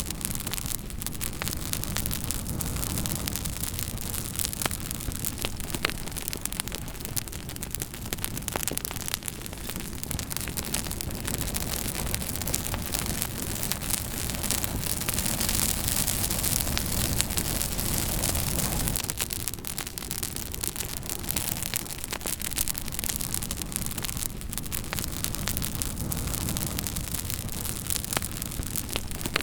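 Campfire crackling, with frequent sharp pops and snaps over a steady rushing noise that swells louder about halfway through.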